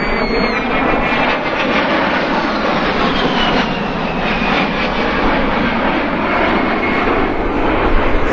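A-10 Thunderbolt II's twin TF34 turbofan engines running loud and steady, with a high whine that slowly drops in pitch through the middle of the stretch.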